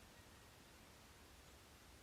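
Near silence: faint room tone with a low hum, in a pause between spoken sentences.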